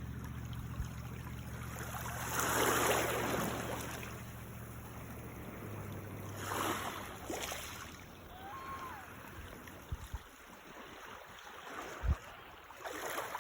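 Small waves washing in on a beach shallows, swelling up twice and falling back. A low steady hum runs under the first half and stops, and a few soft knocks come near the end.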